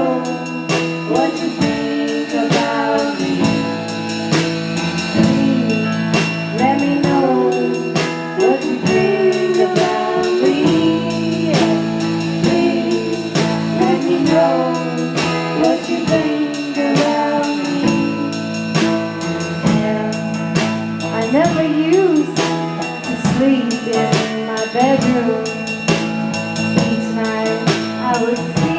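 Live blues-rock band playing: a singer's voice over electric guitar and a drum kit, with a steady beat.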